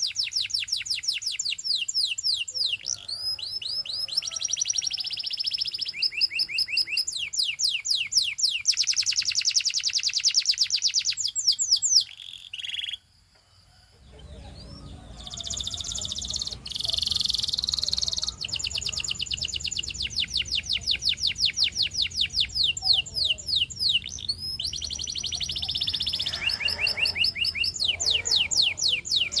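Domestic canary singing fast, high trills of rapidly repeated notes, switching from one trill to the next. The song breaks off briefly about halfway through and then resumes, with a faint low hum underneath.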